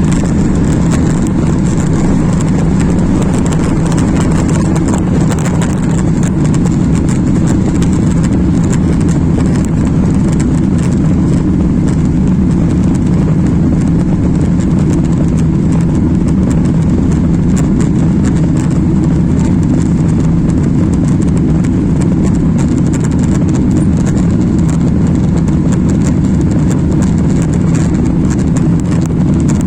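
Steady, loud roar of an airliner's jet engines and rushing air heard inside the cabin during the takeoff climb, with a low drone and a thin hiss above it.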